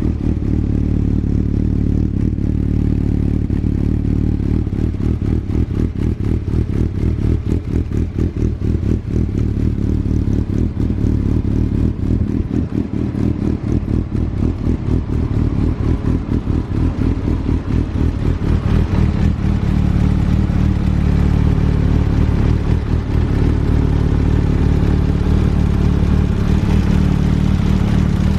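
Honda CB1000SF's inline-four engine running through an aftermarket WM carbon muffler, a steady rapid exhaust beat that gets louder about two-thirds of the way through and holds there.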